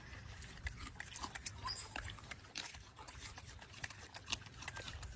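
Faint, irregular clicks and small noises from an animal, with a few brief high squeaks.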